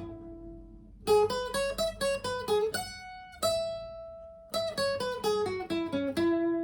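Acoustic guitar playing an instrumental melody: runs of quickly plucked single notes broken by notes left to ring, with a lull about a second in and a long ringing note around the middle.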